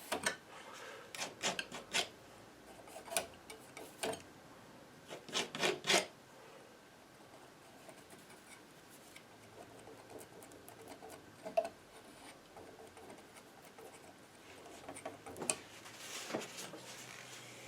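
Palette knife scraping and dabbing paint in short, irregular strokes, in bunches with pauses between.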